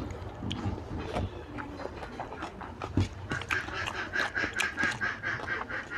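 Close-miked wet chewing and lip-smacking of a person eating oily curried mutton fat by hand, with short sticky clicks. About halfway in it turns into a fast run of rhythmic smacks.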